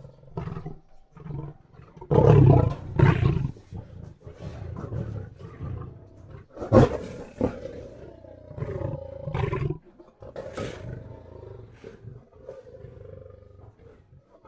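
Mixed lion roars and snarling growls from a sound-effects library, several roars in a row. The loudest come about two to three seconds in and again near seven seconds, then they fade into lower, quieter growls toward the end.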